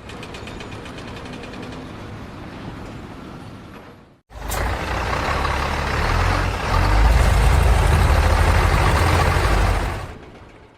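Two short clips. The first is fainter machinery noise with a fast, even ticking. The second, and loudest, is a heavy engine, such as a truck's, running with a steady low rumble that fades away near the end.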